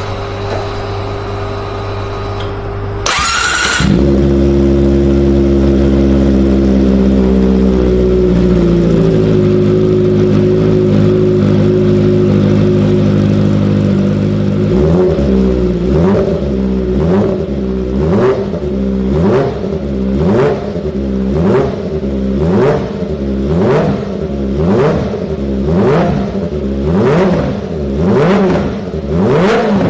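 Kawasaki ZX-25R's 249 cc inline-four engine through a Yoshimura exhaust: it starts about three seconds in and idles steadily, the idle easing down a little. From about halfway it is blipped up and back down over and over, roughly once every second and a half.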